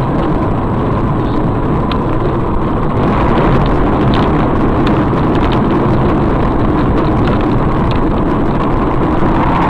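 Steady engine and road noise of a car driving, with scattered faint clicks.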